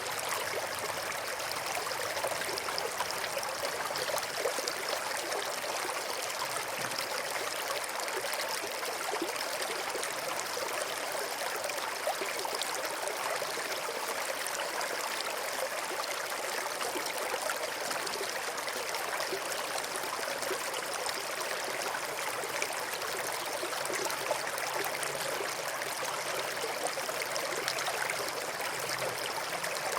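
A river running steadily over rocks: continuous bubbling and splashing of flowing water, with an even hiss and little low rumble.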